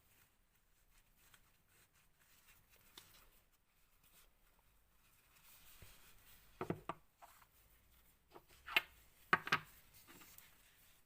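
Small metal engine parts being handled on the bench: mostly quiet, with a few light clicks past the middle and a couple of sharper taps near the end.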